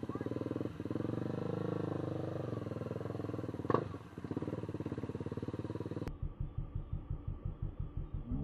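Motorcycle engine running steadily while riding, with one short sharp sound about three and a half seconds in. About six seconds in, the audio cuts abruptly to a different, rapid throbbing pulse.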